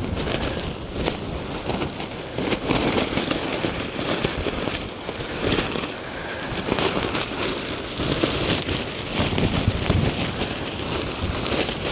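Strong gusting wind buffeting the microphone, with tent fabric flapping and rustling in irregular sharp snaps as it is handled in the wind.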